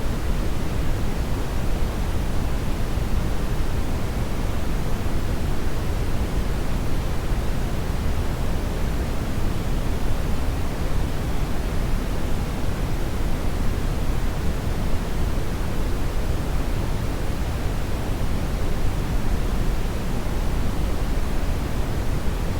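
Hair dryer blowing steadily: an even rushing noise, strongest in the low end, unchanging throughout.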